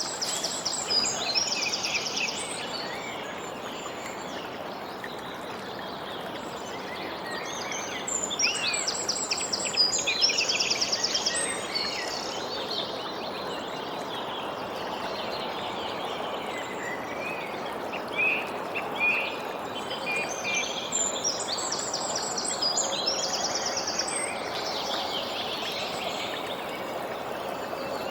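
Songbirds singing in several bouts of high chirps and rapid trills over a steady hiss of outdoor background noise.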